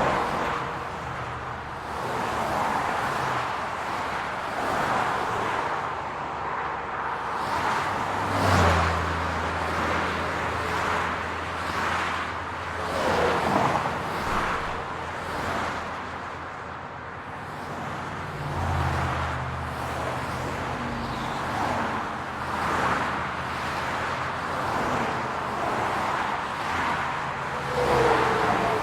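City road traffic: cars passing one after another, each swelling and fading, over a steady wash of traffic noise. A low, steady engine hum sets in about eight seconds in, drops away past the middle, and returns later.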